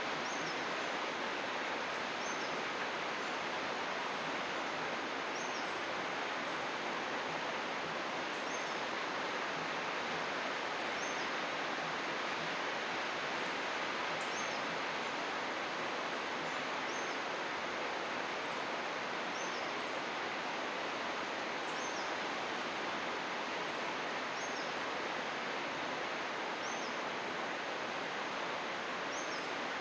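Steady rush of flowing river water, with a bird repeating a short, high chirp about every two seconds.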